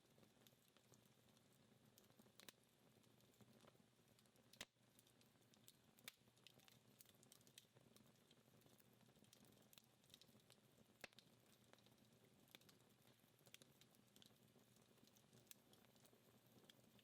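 Dying wood fire crackling faintly, with scattered sharp pops and ticks from the embers, the loudest ones about four to five seconds in and about eleven seconds in.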